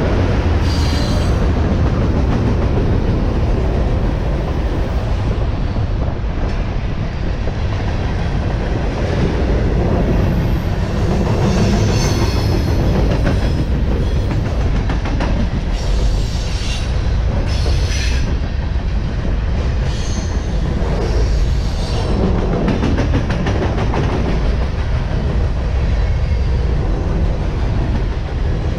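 A train rolling past close by, with a steady heavy rumble of wheels on rail and brief high-pitched wheel squeals several times.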